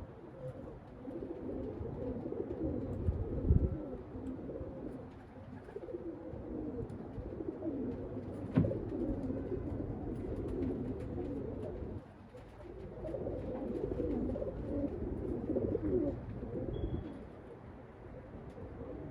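Domestic pigeons cooing in a steady murmur, with wind rumbling on the microphone and one sharp click about halfway through.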